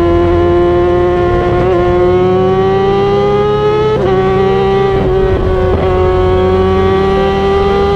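Kawasaki sport bike's engine running hard at high revs, its pitch climbing slowly with a few brief dips as the throttle eases and reopens.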